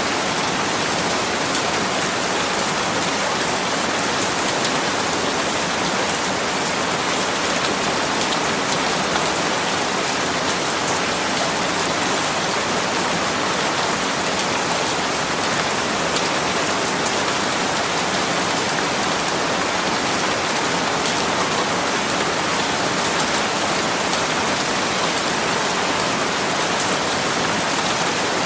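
Steady rain falling, with the fine patter of many drops on a surface and an even hiss that neither builds nor fades.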